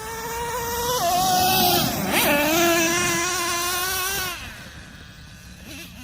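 Traxxas Revo 3.3's small two-stroke nitro engine revving hard under throttle, its high pitch climbing, dropping, then climbing again. It drops away about four seconds in.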